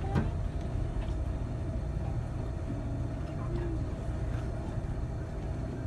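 Steady low rumble of a moving train heard from on board, with a faint steady hum above it.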